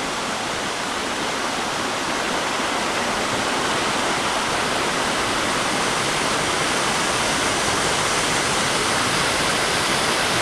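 Waterfall pouring down in a steady, unbroken rush of water.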